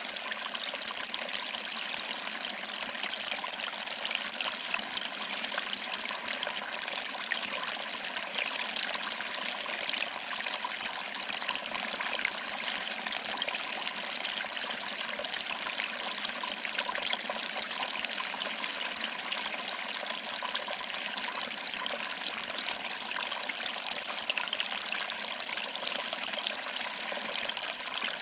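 Small waterfall: water trickling over rocks and splashing into a pool, a steady even rush without pauses.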